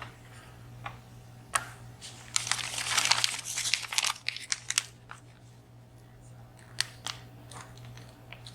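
Clear plastic bag crinkling as hands work inside it, loudest for a couple of seconds near the middle, with scattered sharp clicks of small lock parts and tools. The bag is there to catch the springs while a dimple lock is taken apart.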